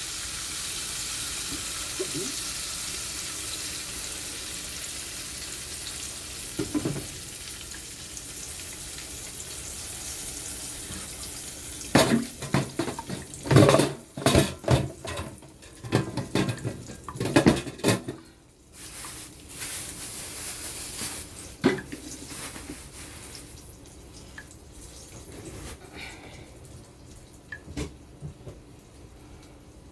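Kitchen work: a steady hiss that slowly fades over the first ten seconds, then a burst of loud clattering of pots and dishes for several seconds, followed by scattered light knocks.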